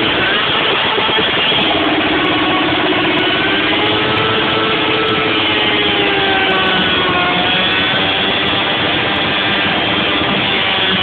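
Motorcycle engine held at high revs while its rear tyre spins on asphalt in a burnout. The sound is loud and continuous, its pitch wavering slowly up and down.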